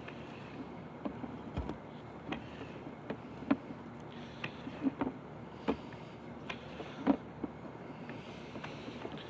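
Irregular light knocks and clicks over a steady low hiss, from sewer inspection camera equipment being handled.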